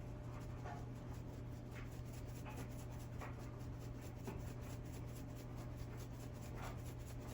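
A steady low hum with a few faint, short scratches and taps, spread out and irregular, like kitchen items being handled.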